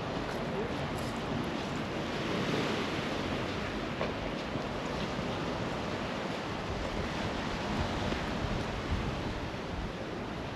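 Sea waves washing onto the beach: a steady surf wash that swells a little about two and a half seconds in.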